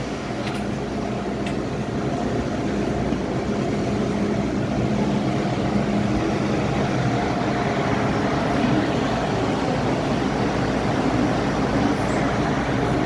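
MTR M-Train electric multiple unit pulling away and running: steady traction-motor hum and rolling noise that grows a little louder over the first couple of seconds.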